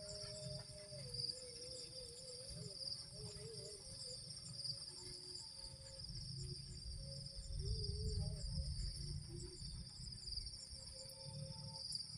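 Steady chorus of insects trilling at a high pitch in two bands, with a low rumble underneath and faint wavering tones in the middle range.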